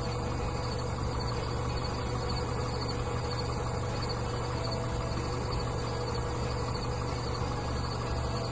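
Steady low hum of an idling vehicle engine, with crickets chirping faintly in an even, repeated rhythm.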